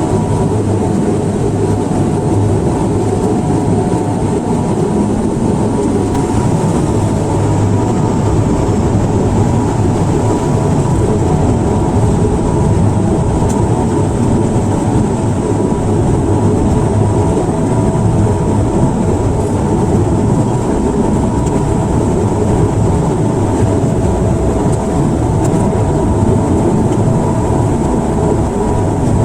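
Airliner engine and cabin noise during the landing approach: a loud, steady drone and rumble with several steady humming tones over it.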